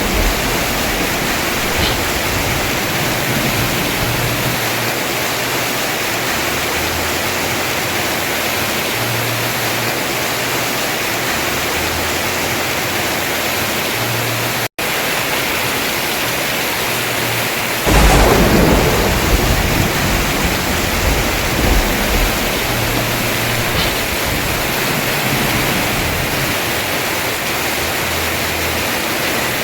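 Heavy rain pouring steadily on a house roof. About two-thirds of the way through, a thunderclap breaks in, its low rumble rolling and fading over several seconds. There is a split-second gap in the sound near the middle.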